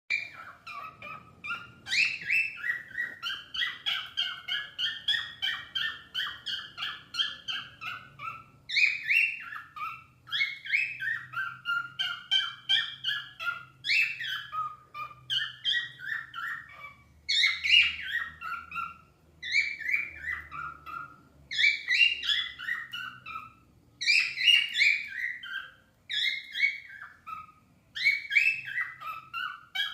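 Cockatiels singing: rapid runs of whistled chirps in phrases of a few seconds each, broken by short pauses.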